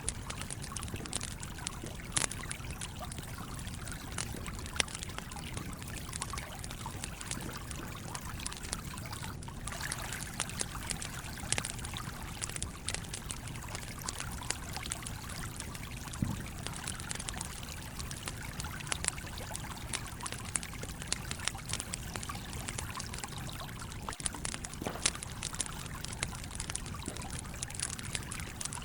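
Campfire crackling, with scattered sharp pops, over the steady flow of a stream.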